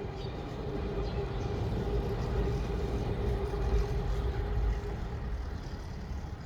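A motor vehicle passing, its steady engine hum and low rumble swelling to a peak about four seconds in and then fading.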